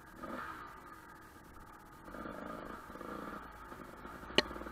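Off-road motorcycle engine running at low revs as the bike rolls along a dirt trail, its exhaust pulsing steadily and rising a little partway through. A single sharp knock comes near the end.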